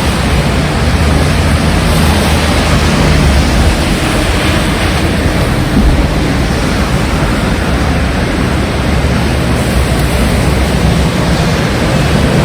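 Heavy rain and strong wind in a city street: a loud, dense, steady hiss with a low rumble underneath.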